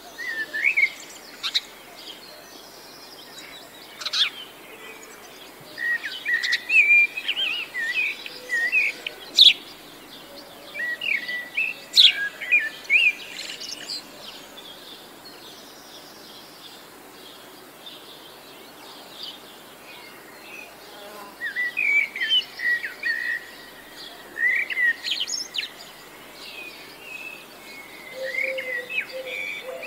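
Songbirds chirping and singing in short phrases, bunched in lively spells with a quieter stretch in the middle, and a lower held note near the end.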